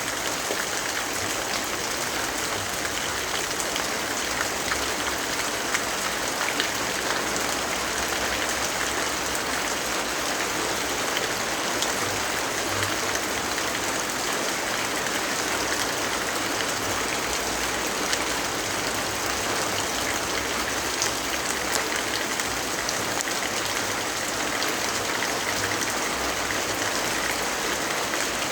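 Steady rainfall: an even hiss of rain with scattered faint ticks of individual drops.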